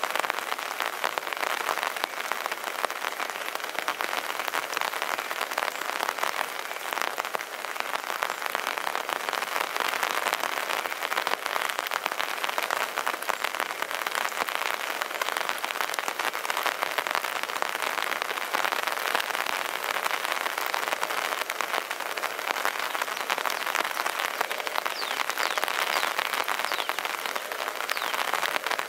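Steady heavy rain falling: an even hiss dense with small drop hits.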